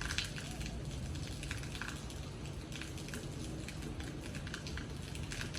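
Rain falling, with irregular drops tapping on a hard surface over a steady low rumble.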